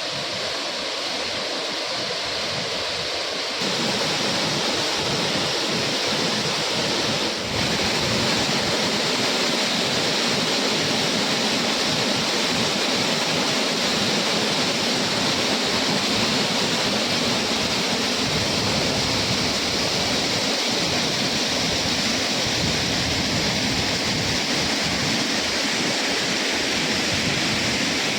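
Perennial waterfall, about 16 m high, with water falling and splashing in a steady rush. It grows louder and fuller about three and a half seconds in, with a brief dip about seven seconds in.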